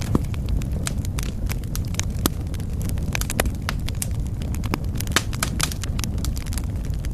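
Wood fire in a fireplace crackling: frequent sharp pops and snaps, several a second, over a steady low rumble of the flames.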